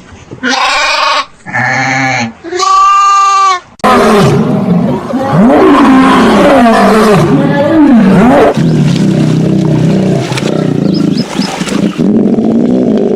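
Animal calls: three short pitched calls in the first four seconds, then after a sudden cut a loud, continuous stretch of many overlapping animal calls whose pitch swoops up and down.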